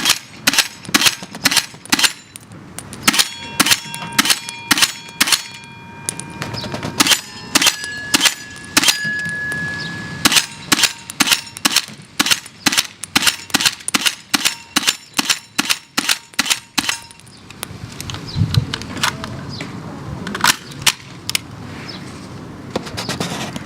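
TOP M4 shell-ejecting electric airsoft gun firing semi-automatic, single sharp shots at roughly two a second for most of the time, then a few slower shots near the end. Bright metallic ringing follows many of the shots, like ejected dummy cartridges clinking as they land.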